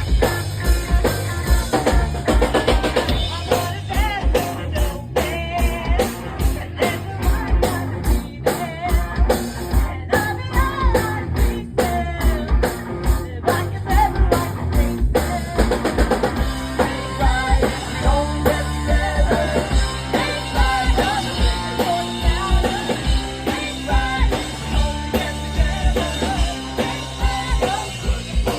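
Punk rock band playing live: drum kit with a steady kick-drum beat, cymbal crashes and distorted guitars, loudest and busiest in the first half.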